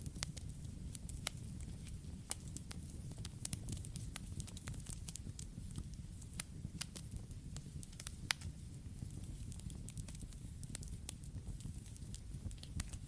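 Campfire crackling: irregular sharp pops and snaps over a steady low rumble, with one louder pop about eight seconds in.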